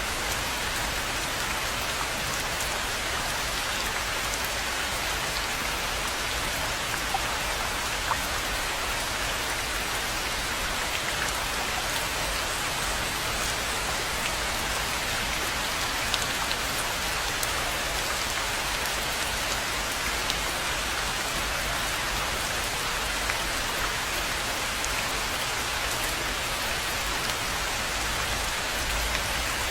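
Steady rain falling on a rainforest pond, an even hiss with a few louder single drops standing out now and then.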